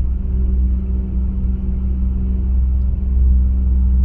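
Ford Windstar's 3.8-litre V6 idling with a steady low rumble. The engine has a cylinder 3 misfire and runs lean on both banks.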